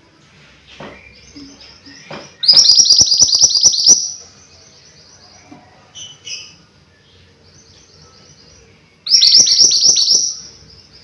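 A mantenan gunung songbird singing: two loud bursts of rapid, high, chattering repeated notes, one in the first half and one near the end, with softer high chirps in between.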